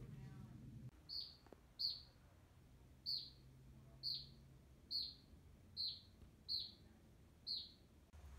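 A bird calling in woodland: a short, sharp, high chirp repeated eight times, about once a second, faint.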